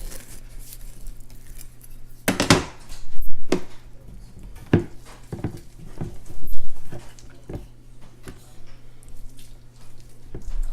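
Kitchen utensils and dishes knocking and clinking at irregular intervals while an avocado is prepared for a dip, over a steady low hum.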